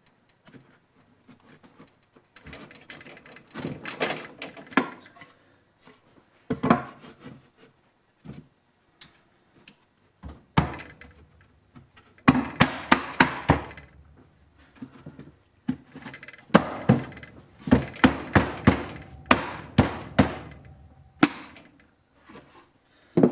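Wooden beehive box boards being knocked together at their joints with an improvised striker, not a hammer. First comes some quieter rubbing and scraping of wood, then from about ten seconds in, clusters of rapid sharp knocks as the joints are driven home.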